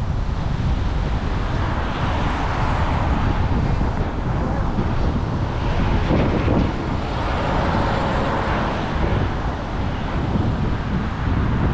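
Wind noise on the microphone of a camera riding along on a moving bicycle, a steady rushing with road or traffic noise beneath it.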